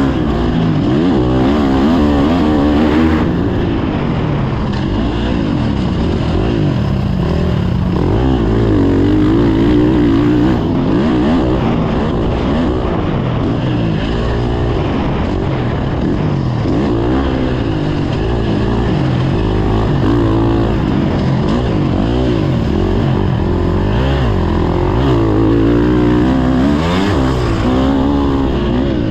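Motocross dirt bike engine being ridden hard, its pitch rising and falling again and again through the throttle and gear changes.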